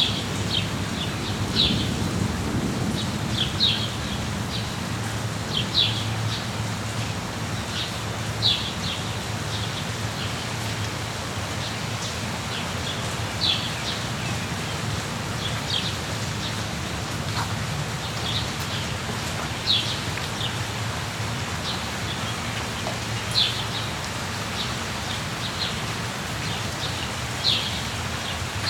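Steady rainfall, with short high bird chirps breaking through every second or few.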